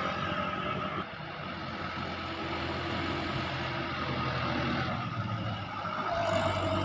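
A truck's engine running steadily, with road noise; the sound changes abruptly about a second in and again near the end.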